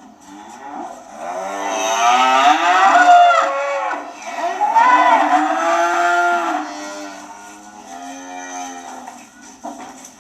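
Cows mooing: long drawn-out moos that rise and fall in pitch, two or more overlapping in the first half, then a fainter moo about eight seconds in.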